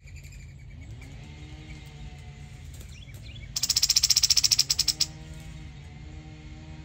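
A small bird giving a rapid, dry trill of evenly spaced notes that lasts about a second and a half, starting halfway through, over a steady low rumble.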